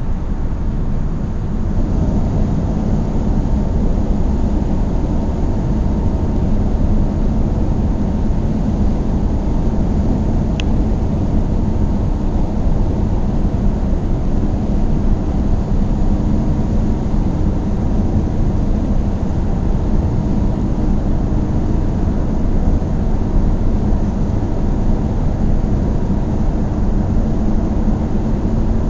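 A car driving steadily on the road: a constant low rumble of engine and tyre noise.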